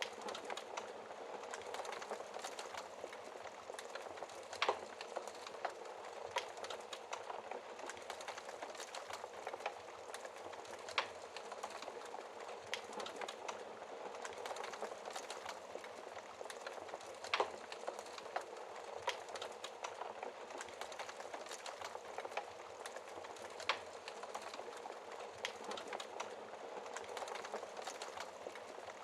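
Wood fire crackling in a fireplace: a steady fizzing crackle with a sharp pop every few seconds.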